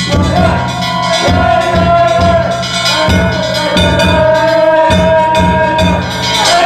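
Danjiri festival hayashi music: taiko drum strokes and clanging hand gongs beat a steady rhythm. A long high note is held over them for most of the passage.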